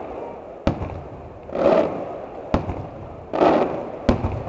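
Aerial firework shells bursting overhead: three sharp bangs roughly one and a half seconds apart, with longer swells of rushing noise between them.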